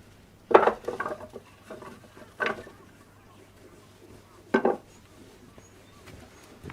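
Split firewood pieces knocking together as they are handled: a short clattering run of knocks about half a second in, then two single hollow knocks about two and four and a half seconds in.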